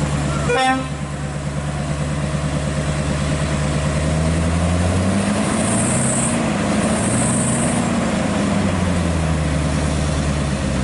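Scania R580 truck's V8 diesel engine running, its note rising about four seconds in and easing back down near the end. A brief knock comes shortly after the start, and two short hisses of air come around the middle.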